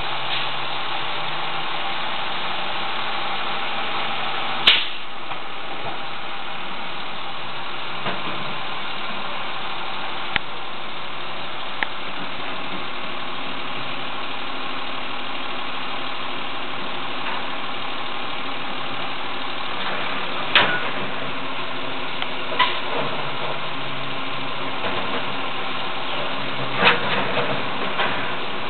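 Automated side-loader garbage truck running steadily, its engine holding an even note, with a handful of short sharp clanks from the lifting arm and cart as it collects a garbage cart.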